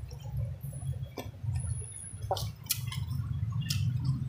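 A person chewing a mouthful of rice and fried mackerel close to the microphone, with several sharp wet mouth clicks and smacks over a low, steady rumble.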